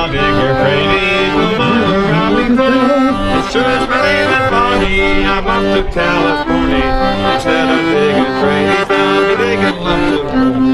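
Accordion music: a tune played over sustained chords.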